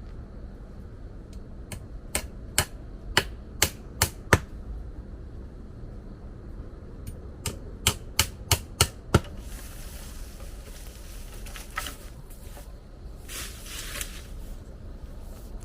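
Two runs of sharp, loud knocks, about six and then about seven at roughly two a second, followed by short bouts of hissing or rustling noise.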